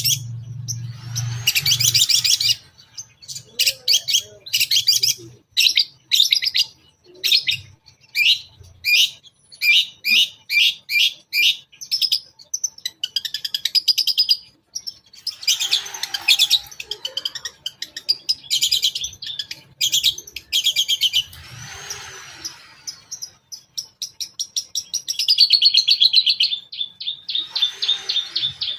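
Long-tailed shrike (cendet) singing: quick runs of sharp, repeated high notes broken by a few harsh rasping bursts. It ends in a fast, even trill. This is a lure song mixing its 'toet toet' call with mimicked phrases.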